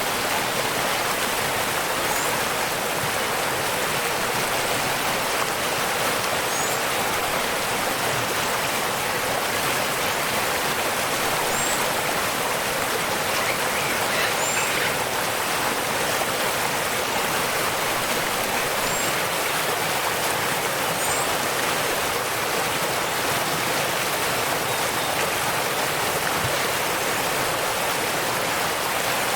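Waterfall rushing steadily, a constant even hiss of falling water. Faint short high bird chirps come through now and then, about six times.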